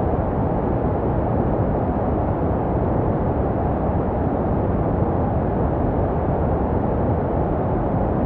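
Steady, unchanging white noise for soothing babies, shaped into a low, muffled hiss with most of its sound in the low and middle range, meant to resemble what a baby hears in the womb.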